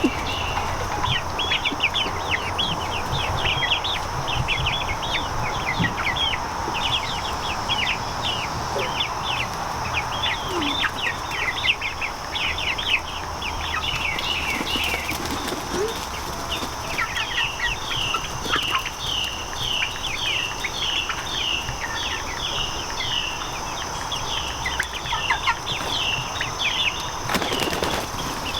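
A brood of young chicks peeping, many short, high, falling calls in quick overlapping runs, with a steady high hum behind them.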